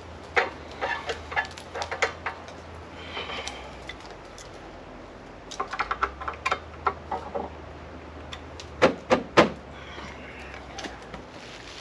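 Handling noises: bursts of clicks, taps and clatter in three clusters, with a few sharp knocks about nine seconds in.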